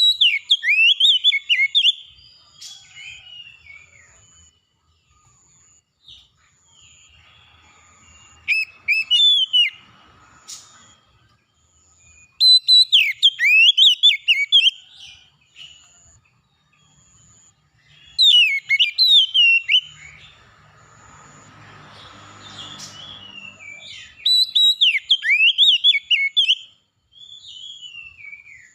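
A songbird sings loud phrases of quick whistled notes that slide up and down, in five bursts of about two seconds each with quieter snatches between them. Behind it a faint high pulse repeats about once a second.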